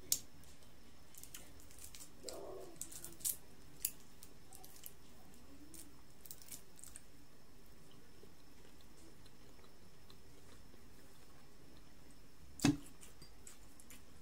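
Close-up eating sounds: scattered wet mouth clicks and smacks while chewing a buttered shrimp. One louder knock near the end.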